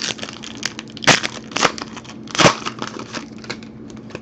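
Trading card pack wrapper being torn open by hand: a run of crinkling rips, the loudest about a second in and again about two and a half seconds in.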